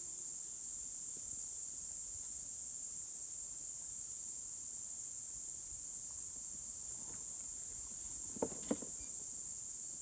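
Insects chirring in a steady, high-pitched chorus, with two short knocks near the end.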